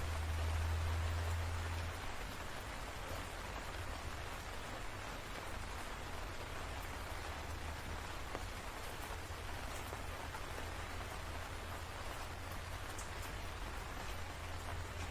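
Steady rain falling, an even hiss of drops. A low rumble sits underneath, louder for the first two seconds and then fading down.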